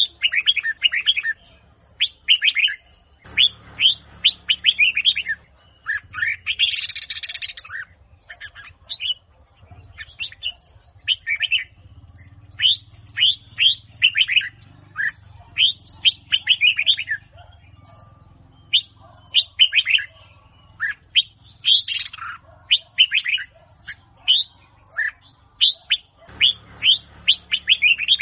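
Red-whiskered bulbul singing: bursts of quick, sharp, down-sweeping whistled notes, phrase after phrase with short gaps between.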